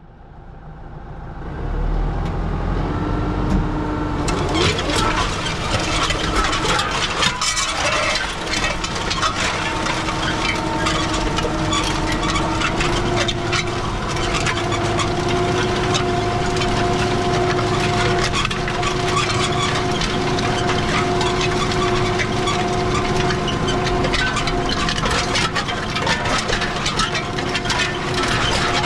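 Kubota M5-111 tractor's diesel engine running steadily under load while pulling a disc harrow, with clattering and rattling from the harrow over the engine. The sound builds up over the first few seconds, then holds steady.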